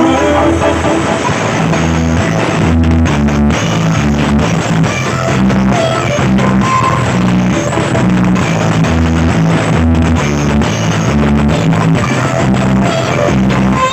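Loud music with drums and a heavy, stepping bass line, played through a large 'sound horeg' sound system during a sound check.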